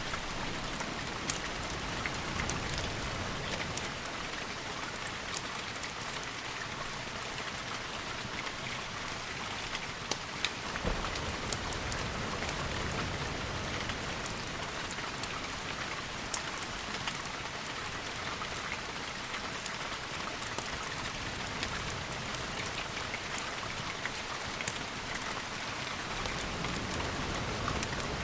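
Steady rain, an even hiss, with many scattered sharp ticks throughout.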